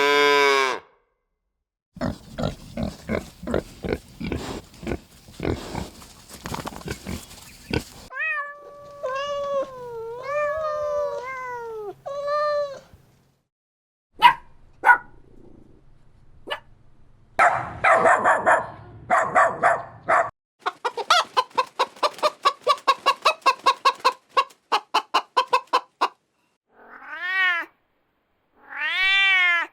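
A run of different animal calls, one short clip after another with brief gaps: rough pulsed grunting or clucking sounds, wavering pitched calls, a fast even series of short pulses, and arching meow-like cat calls near the end.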